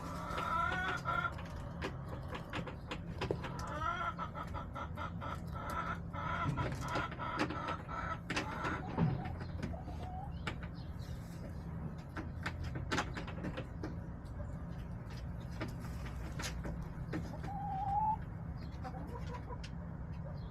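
A backyard flock of hens clucking and calling, in runs of short calls early on and one rising call near the end, with scattered sharp taps over a steady low background hum.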